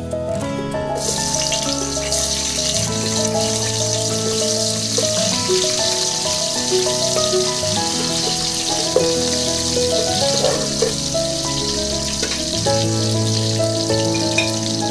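Hot oil sizzling as sliced onions fry in a pot, a steady high hiss that starts about a second in, under background music.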